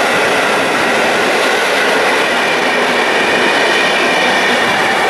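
PKP Intercity passenger coaches rolling past close by: a loud, steady rush of steel wheels on the rails, with a high whine running through it.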